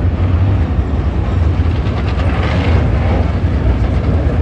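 Dirt late model race cars' engines running on the track, a steady low rumble with no single car standing out.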